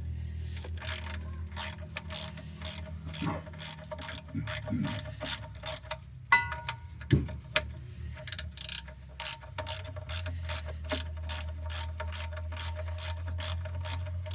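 Hand ratchet clicking steadily, about three clicks a second, as it tightens transmission pan bolts, with a couple of louder metallic knocks midway.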